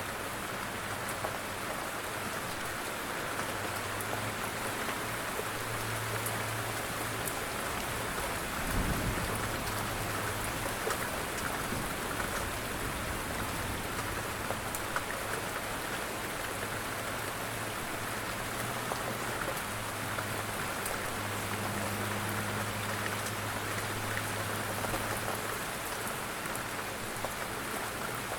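Light rain falling steadily, with scattered ticks of individual drops and a brief low rumble about nine seconds in.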